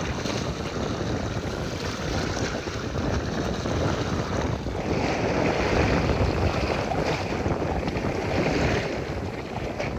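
Wind buffeting the microphone over the wash of sea waves, swelling louder for a few seconds midway.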